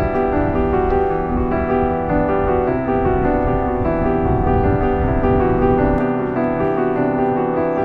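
Background piano music, with a low rumble under it that stops about six seconds in.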